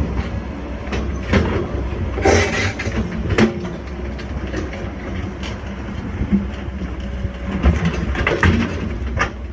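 Excavator engine running steadily, with a string of clanks and scrapes on top, the loudest about two and three and a half seconds in.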